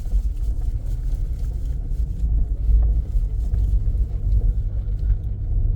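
Vehicle moving along: a steady low rumble of engine and road noise.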